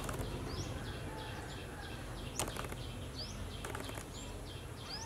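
A bird chirping over and over in short high notes, about three or four a second, some sweeping upward, with a few faint clicks.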